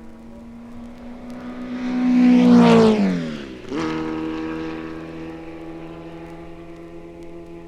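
A racing car passing close at speed: its engine note grows louder to a peak about three seconds in and drops sharply in pitch as it goes by. An engine note then picks up abruptly and carries on, slowly fading away.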